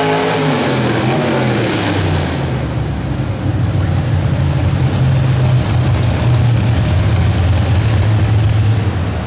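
Pro Street two-wheel-drive pulling truck engine: the high revs fall away over the first two seconds, then a deep, loud, low-pitched engine rumble carries on.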